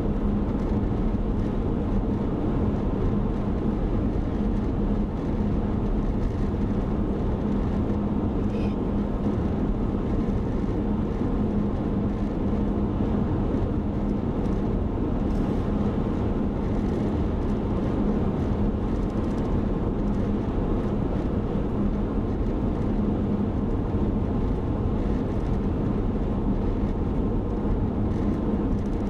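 Steady drone of a car driving at speed, heard from inside the cabin: engine and tyre noise with a constant low hum.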